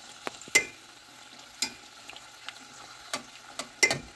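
Dried chiles frying in hot oil in a stainless steel pot, with a faint steady sizzle. Metal tongs clack sharply against the pot every second or so as they turn the chiles, loudest twice, once about half a second in and once near the end.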